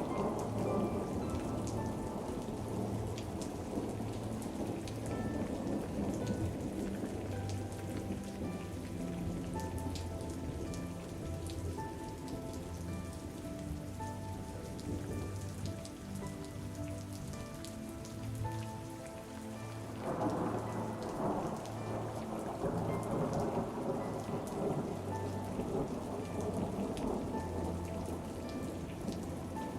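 Steady rain falling, with low thunder rumbling, and a soft melody of held notes playing quietly over it. The rain swells heavier about two-thirds of the way through.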